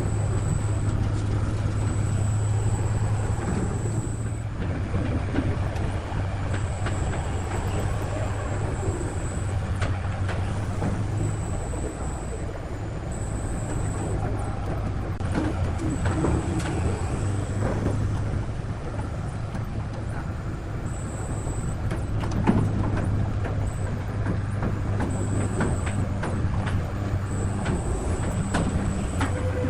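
Heavy machinery running steadily with a low hum, with scattered knocks and a thin high whine that comes and goes.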